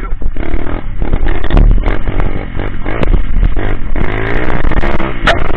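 Coolster Speedmax 125cc pit bike's single-cylinder engine running loud while being ridden, its pitch climbing about four seconds in as it revs up.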